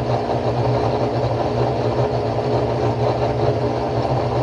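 Whirlpool WTW5010LW top-load washing machine humming steadily while it pumps out the wash water before the spin.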